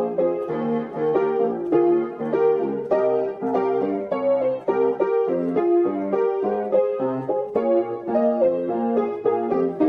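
Background piano music: a brisk run of struck notes, several a second.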